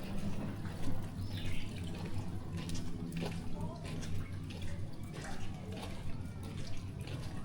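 Rain dripping and splashing: scattered drops and trickling water over a low steady hum.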